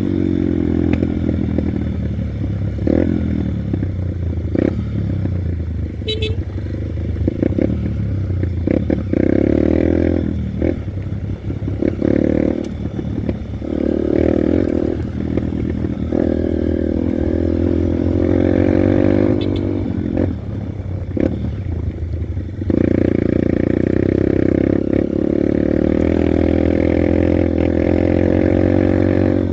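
Honda Bros 150 motorcycle's single-cylinder four-stroke engine running while riding, its note rising and falling as the throttle opens and closes, steadier and louder in the last third, with some rattling.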